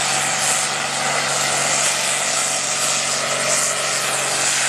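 Allis-Chalmers D21 tractor's diesel engine running flat out under heavy pulling load, a steady loud drone with strong hiss.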